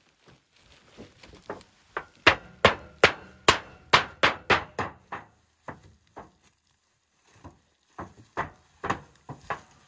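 Hammer blows in a quick run of about three strikes a second, thinning out midway, then a second run of blows near the end.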